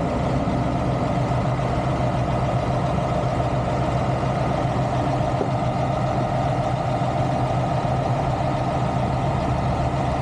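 Heavy diesel engine idling steadily, a constant low hum.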